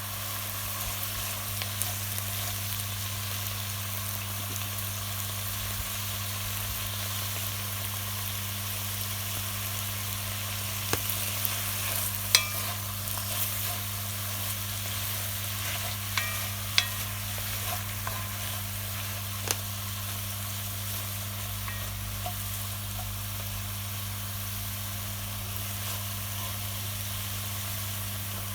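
Wood campfire burning with a steady crackling hiss, broken by several sharp pops from the burning wood in the middle stretch.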